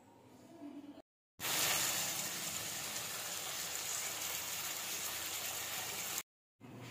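Chicken and potato curry sizzling in an iron kadai: a steady hiss that starts abruptly about a second and a half in and cuts off sharply near the end.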